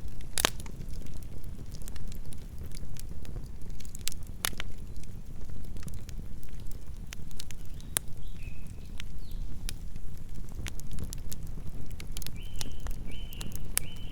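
Campfire burning: a steady low rumble of flames with scattered sharp crackles and pops from the burning wood. A few short high chirps sound midway, and three more come in quick succession near the end.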